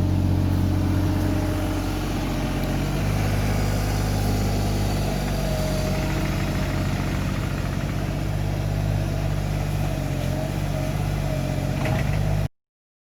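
An engine idling steadily, its pitch stepping up slightly about three seconds in; the sound cuts off abruptly near the end.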